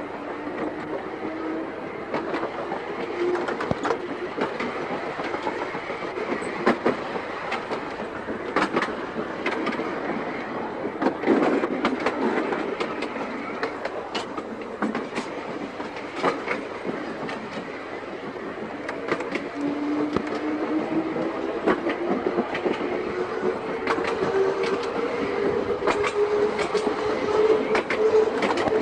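Seaton Tramway's narrow-gauge electric tram running along the line, its wheels clicking over rail joints. The motor whine rises in pitch briefly at the start, then climbs steadily again through the last third as the tram picks up speed.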